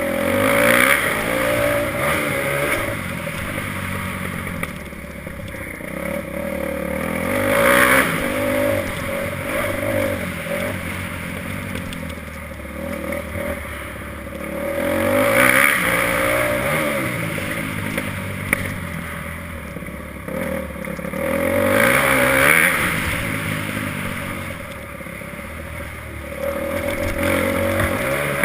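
Motocross bike engine revving hard and backing off again and again, its pitch climbing through the gears and dropping, with the loudest surges about every seven seconds.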